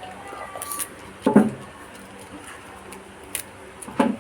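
A few sharp knocks and clatters of kitchenware being handled, three of them spread over the few seconds.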